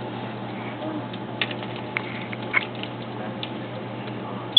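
A steady low hum with a few faint, scattered clicks and taps, then one sharp, brief click with a short high tone right at the end.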